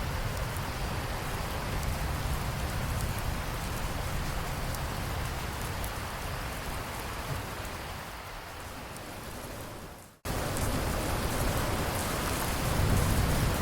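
Steady heavy rain with a low rumble underneath. About ten seconds in it fades and cuts out for a split second before coming straight back, and the low rumble swells near the end as thunder builds.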